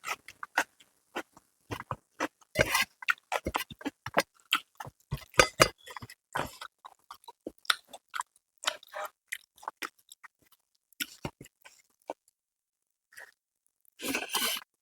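A person chewing and smacking food close to the microphone: irregular wet mouth clicks in clusters, with a quiet spell before a dense burst of smacking near the end.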